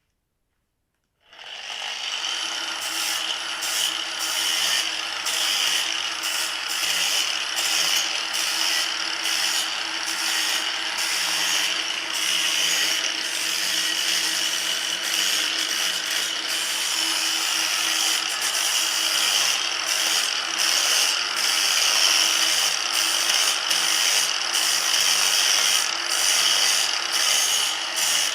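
A power tool starts about a second in and runs steadily.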